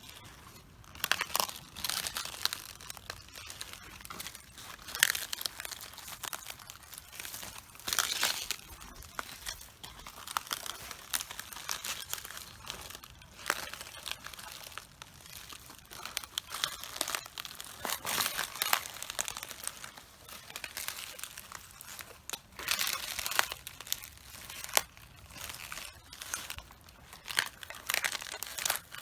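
Cabbage leaves crunching, crackling and tearing under footsteps, a burst of crisp snapping every second or so as the heads are stepped on and crushed.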